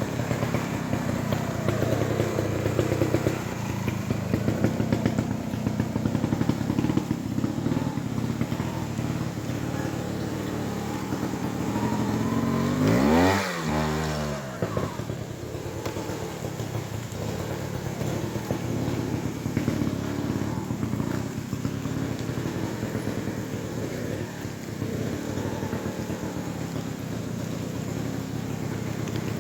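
Trials motorcycle engine running and being blipped unevenly, with a loud burst of revving about 13 seconds in.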